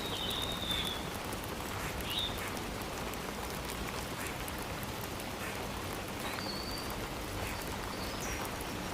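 Steady hiss of rain falling, with a few short high chirps from a small animal over it.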